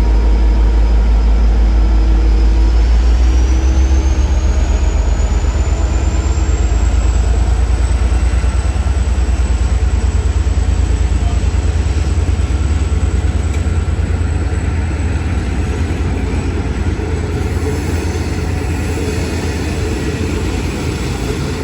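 Train running through the station: a heavy low rumble with a thin high whine that rises in pitch over a few seconds, then holds steady.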